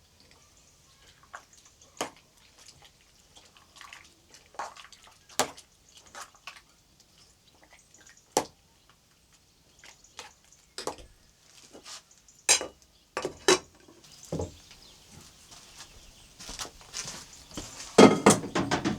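Irregular light clinks and knocks of objects being handled, with a louder burst of clattering near the end.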